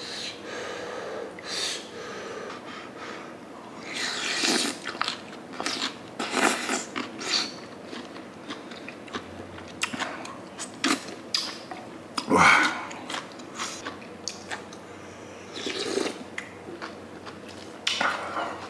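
A person chewing and biting mouthfuls of sundae gukbap, Korean blood-sausage and rice soup, close to the microphone: irregular wet mouth sounds and short clicks, with the loudest burst about twelve seconds in.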